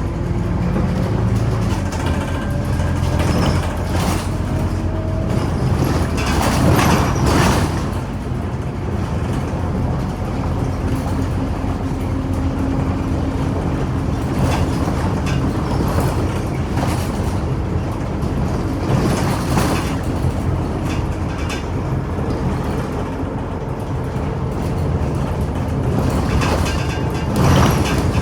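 Scania Omnicity city bus on the move, heard from inside the cabin: a steady low engine and road rumble with a faint whine that shifts in pitch. Short louder bursts of noise come about seven seconds in and again near the end.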